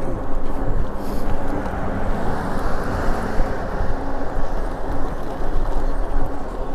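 Steady wind rush on the camera microphone with road noise while riding a Lectric e-bike, with a faint steady low hum underneath.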